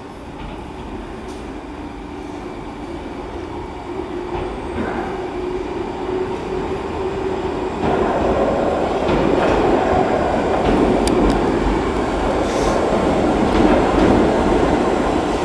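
A Merseyrail electric multiple unit arriving through the underground station on curved track, its rumble and wheel noise growing louder as it approaches and stepping up sharply about halfway through, with a few brief high wheel squeals near the end.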